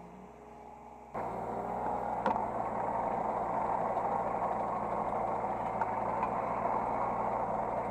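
Hydraulic excavator's diesel engine running steadily, heard from the operator's seat. A low hum gives way suddenly to the louder engine noise about a second in.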